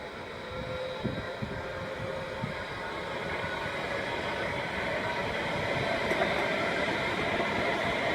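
A train approaching on the line, its running noise with a steady whine growing steadily louder. A few knocks sound in the first few seconds.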